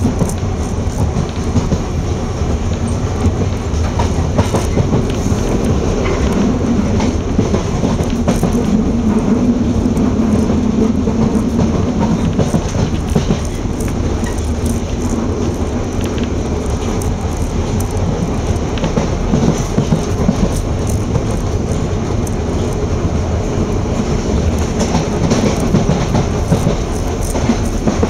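London Underground Piccadilly line train, 1973 Tube Stock, heard from inside the carriage running at speed on open-air track: a steady rumble of wheels on rails with clickety-clack from the rail joints. A low hum swells for a few seconds about a third of the way in.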